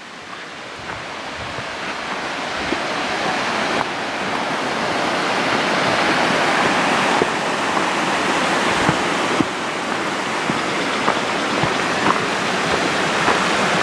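Rushing water of a mountain creek and waterfall, a steady noisy rush that grows gradually louder throughout, with a few faint ticks over it.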